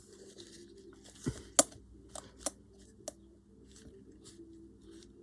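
Paper and craft materials being handled on a work surface: soft rustling with a few sharp clicks, about four, in the first half.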